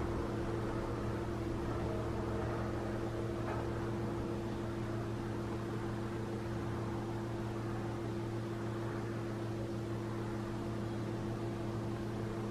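A steady mechanical hum with a constant low tone and a hiss over it, unchanging throughout.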